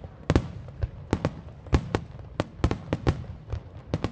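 Fireworks bursting in a rapid, irregular volley of sharp bangs, about four a second, over a steady low rumble.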